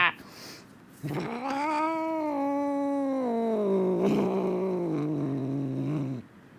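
Domestic cat giving one long, drawn-out yowling growl of about five seconds, which rises a little and then sinks steadily lower in pitch before stopping.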